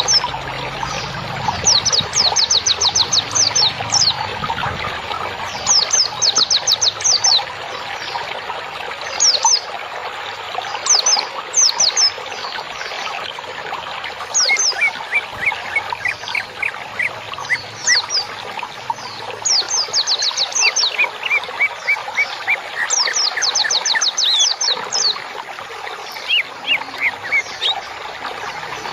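Songbirds singing in bursts of rapid trills, each a quick run of sharp falling high notes, over steadily trickling water. This is a masteran recording, played to caged songbirds to calm them and to teach them song.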